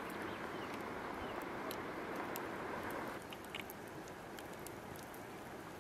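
Light rain: a steady hiss of falling rain with scattered sharp drop ticks. The hiss drops away about three seconds in, leaving only the ticks.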